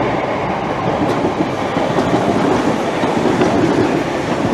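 Electric multiple-unit trains, a Class 321 and TfL Rail Class 315s, passing close by: a steady loud rumble of wheels on track with a few faint clicks.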